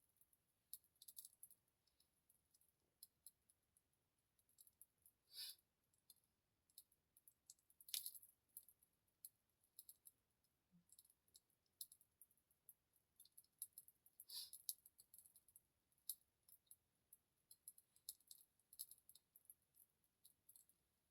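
Faint, irregular crackling of a small burning fire, with a few louder pops about five, eight and fourteen seconds in.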